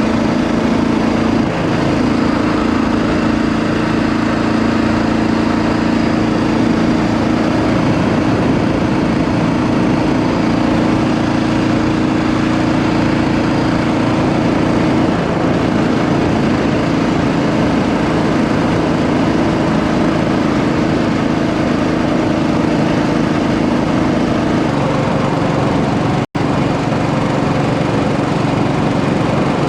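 Royal Enfield Bullet 500 EFI's single-cylinder engine running steadily as the motorcycle is ridden, its note changing twice with throttle. There is a split-second break in the sound near the end.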